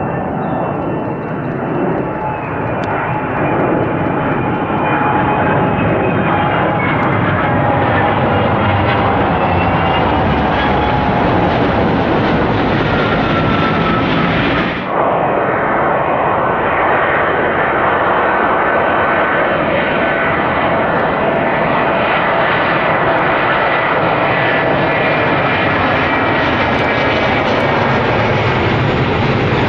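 Large jet aircraft's engines running loud and steady, with several whining tones that slowly drift in pitch. About halfway through the sound cuts abruptly to another stretch of the same engine noise.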